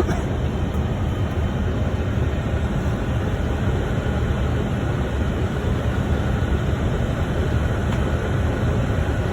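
Steady rushing cockpit noise on a Boeing 747-400 freighter's flight deck during approach: the airflow and engine sound of the airliner in flight.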